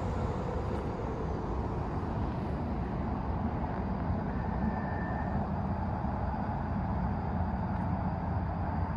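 Steady low rumbling background noise with no distinct events, and a faint short tone about five seconds in.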